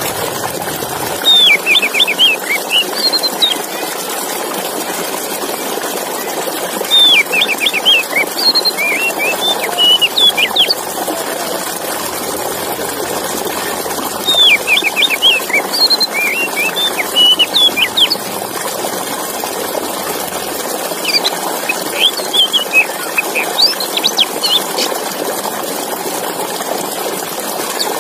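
Male Oriental magpie-robin (kacer) singing: four phrases of quick, high, sweeping chirps, one every six or seven seconds, over a steady background rush.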